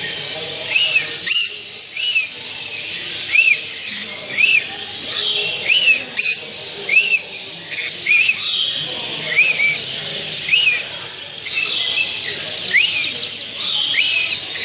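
Many small cage birds chattering together, with one short rising-and-falling chirp repeated about once a second over the chatter.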